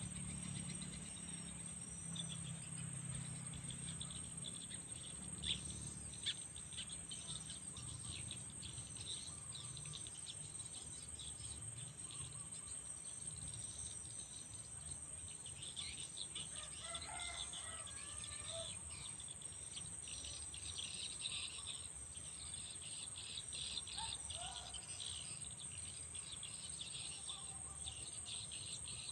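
Outdoor insect chorus: a steady high-pitched drone of crickets or cicadas with dense chirping, and a few short bird calls, a cluster around the middle and another near the end.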